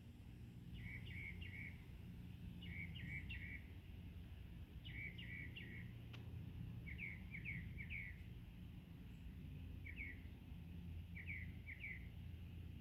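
Red-bellied woodpecker calling: short notes in quick clusters of three or four, a cluster about every two seconds, over a faint steady low hum.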